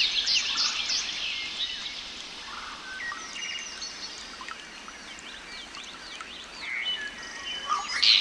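Several small birds chirping and singing together, short overlapping chirps and whistles, busier at the start and again near the end.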